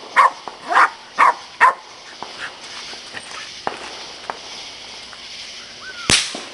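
A dog barking over and over, about two barks a second, for the first two seconds. Then a quieter stretch with a few small clicks, and a single sharp bang near the end.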